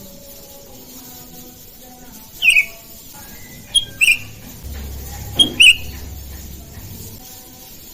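Sooty-headed bulbul (kutilang) giving short, loud, downward-sliding calls: one about two and a half seconds in, then two quick pairs over the next two seconds. A low rumble sounds underneath the second pair.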